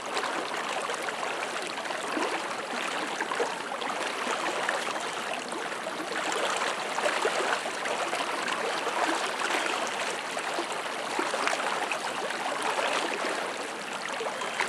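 Flood-swollen river current rushing and splashing steadily, with no break.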